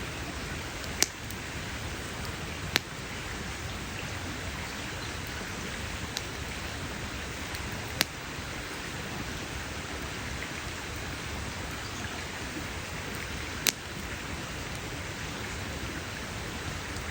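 Campfire burning with a steady hiss, broken by a few sharp crackling pops of the wood, four of them loud.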